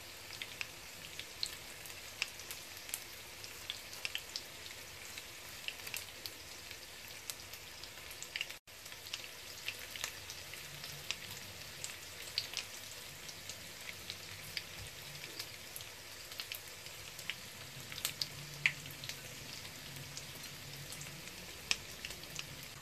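Tofu frying in hot oil: a steady sizzle with frequent small crackles and pops of spattering oil.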